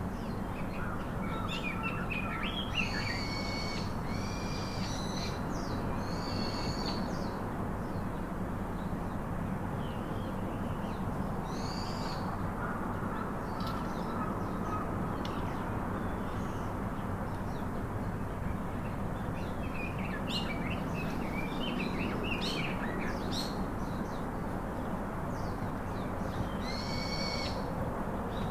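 Pet parrots (an Alexandrine and a ringneck) calling in scattered short, high-pitched calls, in several clusters, over a steady background hum.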